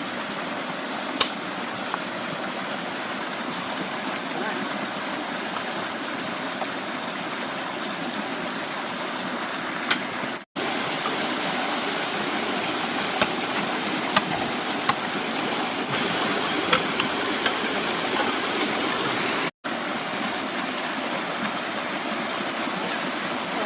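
Stream water rushing steadily, with a few sharp knocks scattered through it. The sound cuts out for an instant twice.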